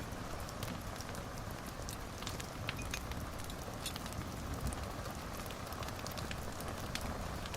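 Wood fire in a fireplace crackling: irregular sharp pops and snaps over a steady rushing hiss.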